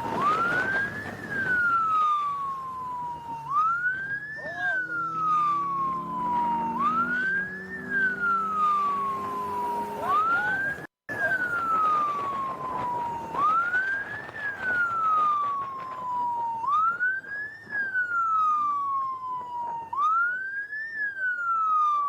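Police siren wailing in a steady rise-and-fall cycle. Each rise is quick and each fall slow, repeating about every three seconds. It cuts out for a moment about halfway through.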